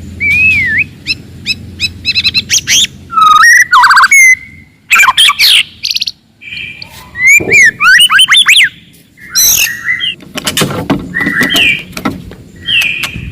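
Wild white-rumped shama (murai batu hutan) singing loudly: an aggressive song of fast, varied phrases of clear whistles, rising and falling slurred notes and rapid trills, separated by short pauses. A low hum sits under the first three seconds.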